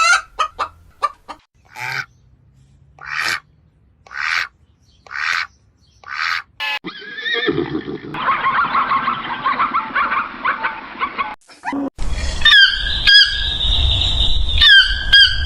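A run of different animal calls cut one after another: rapid clucking at first, then single calls about one a second, then a dense chorus of many overlapping calls, and in the last few seconds loud squawks that sweep up and down in pitch.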